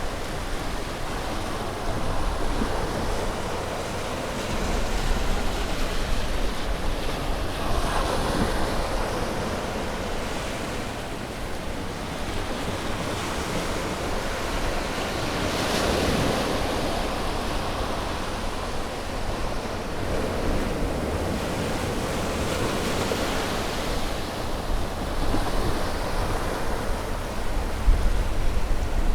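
Ocean waves breaking and washing on a shore, a continuous surf with swells that build and fade, the strongest about halfway through, with a low wind rumble underneath.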